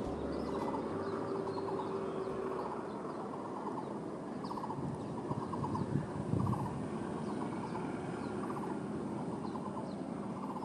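Outdoor ambience: repeated short trilled animal calls and scattered high chirps over a steady background hiss, with a couple of brief low bumps a little past the middle.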